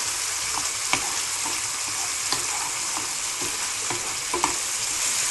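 Diced pancetta and shallot sizzling steadily in oil in a nonstick frying pan, stirred with a wooden spoon, with a few light taps of the spoon.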